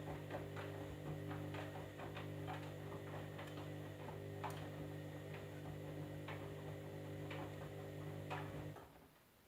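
Candy washing machine running with a steady motor hum and irregular light clicks, then cutting off abruptly near the end.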